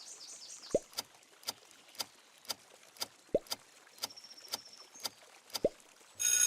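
A quiz countdown timer ticking about twice a second, with a few short rising chirps between the ticks. A bright ringing chime starts near the end.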